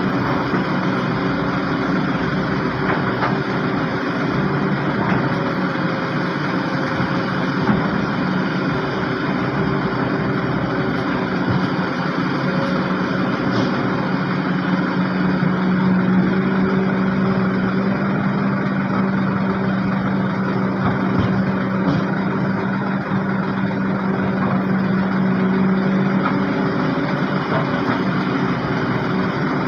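Heavy diesel engine running steadily with a constant low hum.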